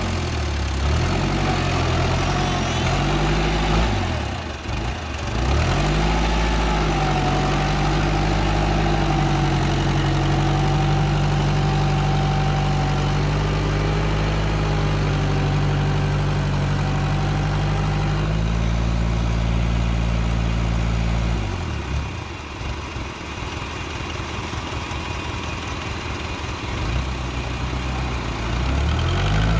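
Tractor engine working hard, its pitch rising and falling as it revs, with a thin whine over it while it runs steadily under load. It drops back to a quieter, lower run about two-thirds of the way through, then revs up again near the end.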